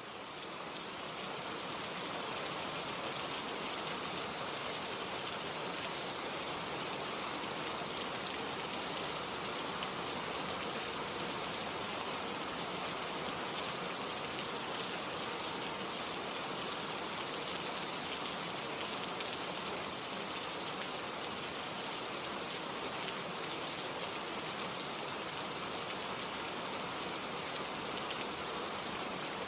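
Gentle rain falling steadily, a dense even patter with no thunder, fading in over the first couple of seconds and then holding steady.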